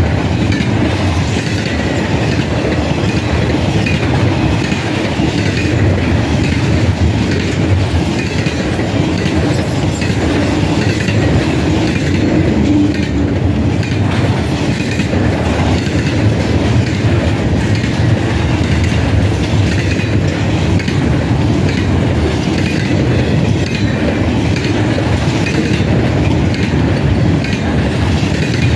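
Double-stack intermodal freight cars rolling past: a steady, loud rumble and clatter of steel wheels on rail that keeps on without a break.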